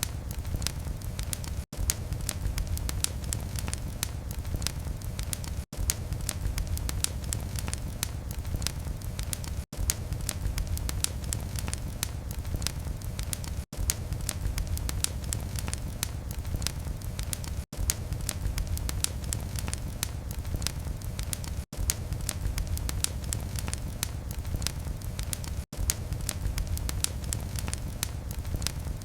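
Wood fire crackling in a fireplace: many small sharp crackles and pops over a steady low rumble, broken by a brief dropout about every four seconds.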